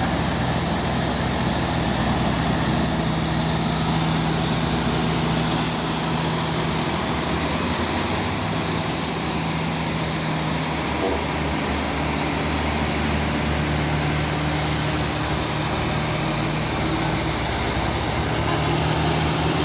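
Heavy truck's diesel engine running steadily, a low droning note that wavers briefly about halfway through.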